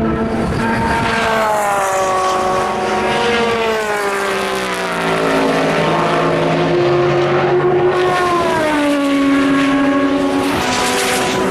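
Endurance racing cars running on the circuit, several engines at once. Their engine notes fall in pitch twice as cars go by, with steadier engine tones in between.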